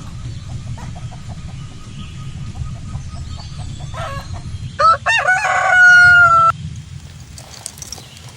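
Rooster crowing once, loud, about five seconds in: a rising start then a long held note that cuts off abruptly. Before it, chickens cluck quietly in short repeated calls.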